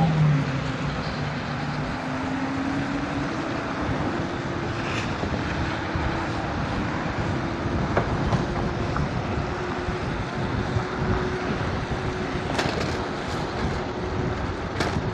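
Steady rushing road and wind noise from riding an electric scooter, with a faint steady whine and a few brief clicks.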